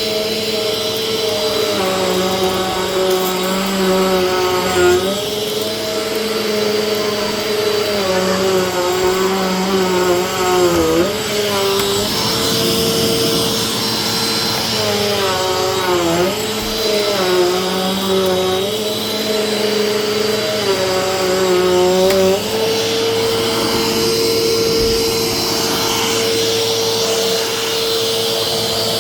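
Vacuum cleaner running with a steady whine and rush of air. Its motor pitch repeatedly dips and wavers as it is worked back and forth, then holds steady for the last several seconds.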